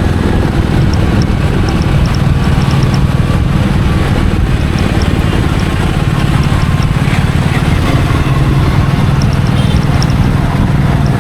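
Royal Enfield Meteor 350's single-cylinder engine and exhaust running steadily while riding, with a rush of wind and road noise over it.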